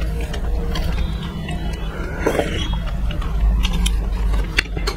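Close-miked chewing and wet mouth sounds of people eating, with many small irregular clicks over a steady low hum.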